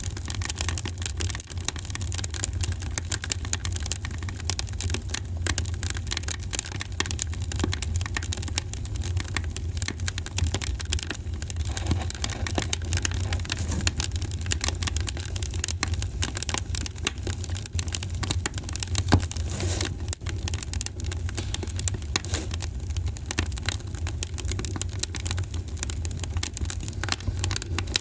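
Wood fire crackling in a fireplace: a dense, irregular run of small pops and snaps over a steady low rumble, with one louder pop about two-thirds of the way through.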